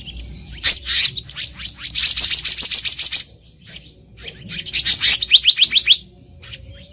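Black-naped monarch singing: two quick runs of rapidly repeated, high, sharp notes, about eight a second, the second run shorter and starting around the middle.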